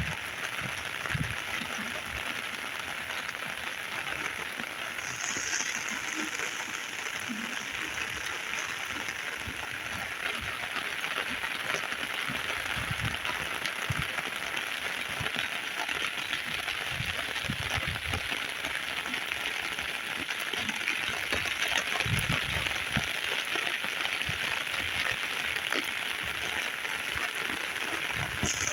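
Heavy rain falling steadily, a dense even hiss, with scattered heavier drops knocking close by.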